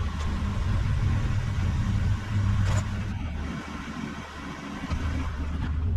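Car engine running with a steady low note, mixed with road and wind hiss; it eases off slightly around the middle and builds again near the end.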